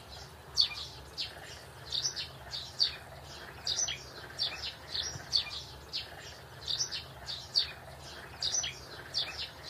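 Small birds chirping in the background: short, high chirps about two a second, irregularly spaced, over a faint low steady hum.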